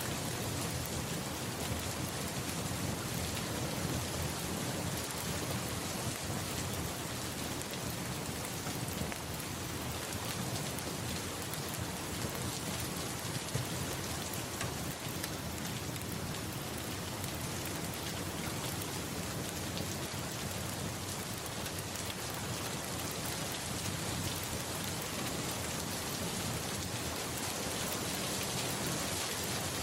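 Steady rain falling on a surface, an even hiss of drops with a low rumble of distant thunder underneath.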